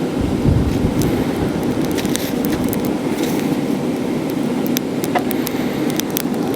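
Steady rush of air with wind buffeting the microphone, and scattered sharp crackles of paper and kindling burning in a coke forge.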